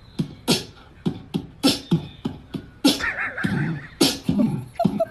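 Beatboxing: a fast run of sharp percussive mouth sounds, roughly three a second, with a brief wavering squeaky sound about three seconds in.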